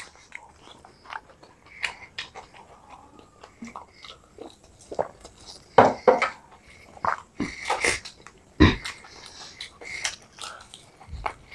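Two people biting and chewing batter-fried chicken lollipops: irregular short bite, chew and mouth sounds, with a few louder ones about six and nine seconds in.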